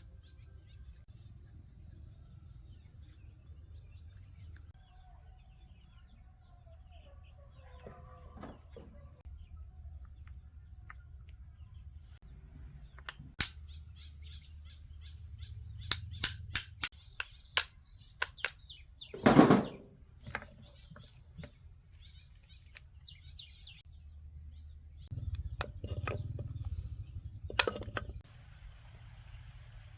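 Insects chirring steadily at a high pitch. Scattered sharp clicks and knocks sound through the middle, with one louder half-second burst around the middle and a rougher stretch of noise near the end.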